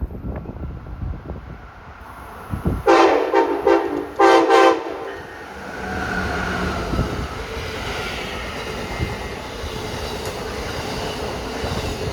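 Train horn sounding two blasts, a longer one about three seconds in and a short one right after, then the steady rumble of the train rolling past the platform.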